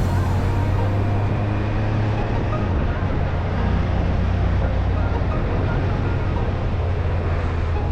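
Motorcycle engine running steadily at cruising speed, a low even rumble with a rush of wind and road noise over it.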